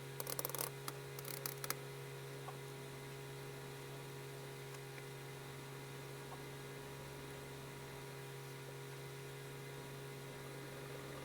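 Steady low electrical hum, with a few brief scratching clicks in the first two seconds and only the hum after that.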